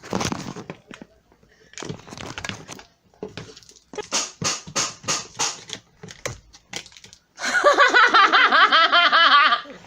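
Packaging being torn open and crinkled as a boxed vacuum cleaner is unpacked: a run of irregular rustles and crackles. Near the end a young child's voice is heard for about two seconds, wavering in pitch.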